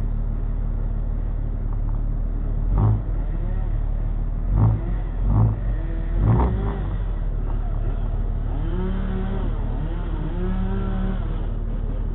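Diesel truck engine idling steadily, with four loud knocks or thumps between about three and six and a half seconds in. Faint voices come near the end.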